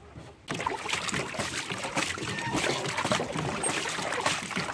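Water splashing and trickling without a break, starting about half a second in, as water is bailed out of a small boat that is leaking.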